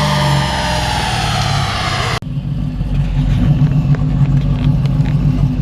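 Turbo-diesel truck on a chassis dyno winding down at high revs, the pitch falling slowly. About two seconds in it cuts off abruptly to a diesel engine idling steadily, with light ticks.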